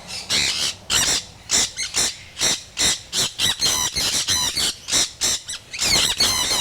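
Sun conures screeching, a string of short, harsh, high-pitched calls about two a second, coming thicker near the end as several birds call together.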